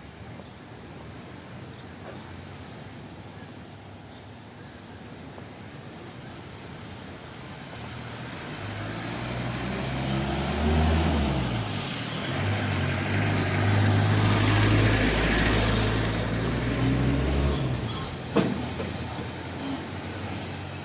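A motor vehicle's engine approaches, passes close by and fades, its low running note shifting briefly about ten seconds in; a single sharp knock sounds near the end.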